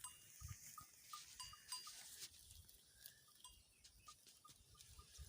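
Faint, irregular tinkling of small livestock bells on grazing goats, a few light rings every second, with a low rumble of wind on the microphone.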